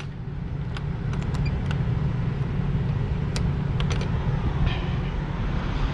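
International LoneStar semi truck's diesel engine idling, a steady low rumble, with a few light clicks over it.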